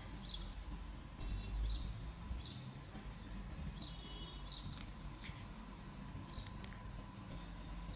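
A bird chirping repeatedly, short falling chirps about once a second, over a low background rumble, with a few faint clicks about halfway through.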